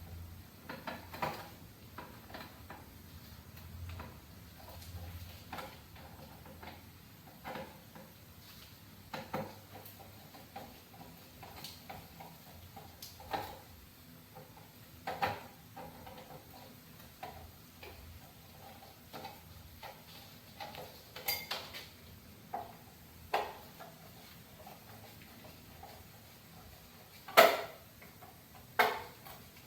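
Scattered light metal clicks and taps, with two louder knocks near the end: a screwdriver and hands loosening the screws and handling the wiring at the top of an electric water heater.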